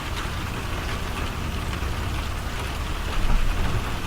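Steady heavy rain pouring down, with a brief louder low thud a little past three seconds in.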